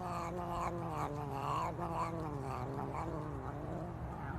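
A cat yowling in one long, drawn-out call whose pitch slowly sinks, over a steady low hum.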